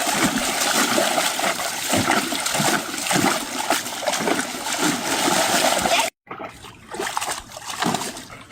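Water splashing in a swimming pool as dogs play in it, dense and continuous, cutting off abruptly about six seconds in; after that, fainter scattered splashes.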